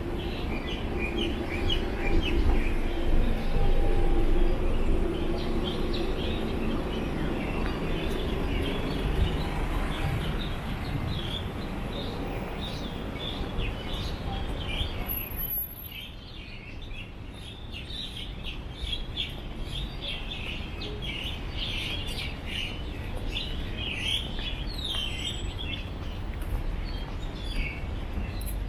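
Birds chirping, many short calls overlapping. A vehicle engine rumbles and hums under them through roughly the first ten seconds, then fades.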